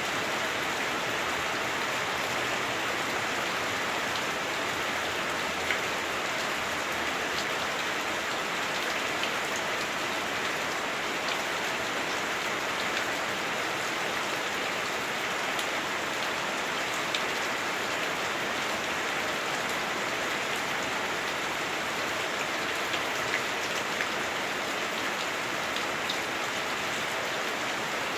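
Heavy rain falling on a house roof, heard from inside the house: a steady, dense hiss with a few louder drop ticks scattered through.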